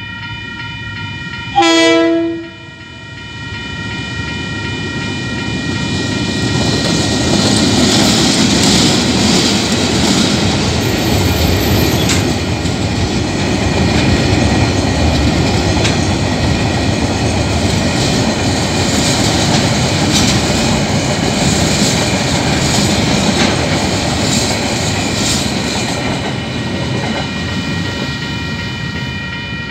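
A freight train sounds one short horn blast about two seconds in. Its container wagons then roll through the level crossing for about twenty seconds, clattering over the rails and easing off near the end. The crossing's warning bells ring steadily throughout.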